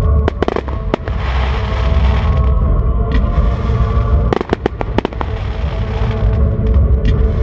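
Fireworks display: deep continuous booming from shell bursts with crackling, and a cluster of sharp reports about four to five seconds in.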